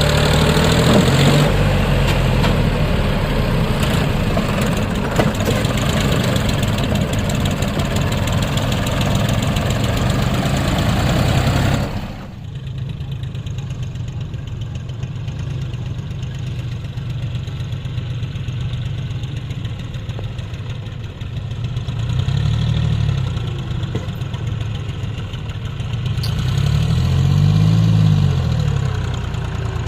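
Diesel tractor engine running steadily and loudly. About twelve seconds in the sound changes abruptly to a quieter engine note, which twice in the second half revs up and drops back.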